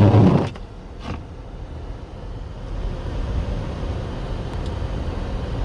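Low steady rumble of a motor vehicle, with a brief loud burst at the very start and a faint click about a second in.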